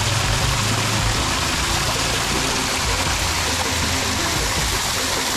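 Steady rush of running water, with music playing underneath.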